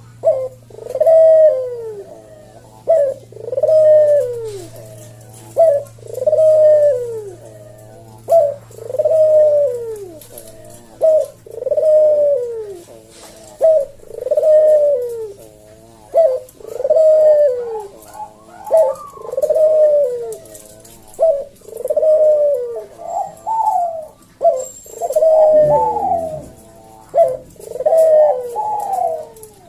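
A puter dove (Javan Barbary dove) cooing over and over in its 'kuk deruk' call, each phrase a short note then a longer falling coo, repeated about every second and a half. Near the end the coos come quicker and higher-pitched. A faint low hum runs under the first half.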